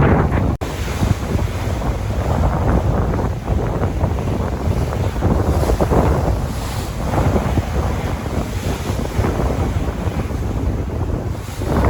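Sea waves washing in and out, rising and falling in surges, with heavy wind buffeting the microphone. A brief dropout about half a second in.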